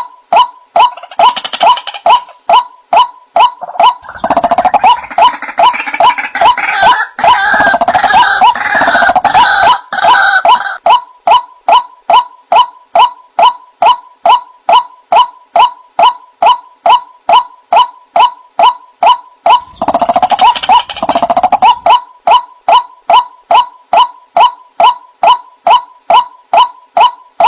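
White-breasted waterhen calling: a steady run of short, evenly repeated notes, about two a second. Twice it is joined by a louder burst of jumbled croaking and chattering calls, once for several seconds and once for a couple of seconds near the end.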